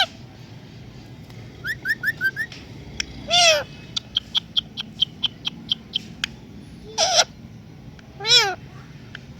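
Pet talking parrot calling: a few short rising chirps, a louder call, then a quick run of short chirps about four a second, followed by two more calls, the last one rising and falling in pitch.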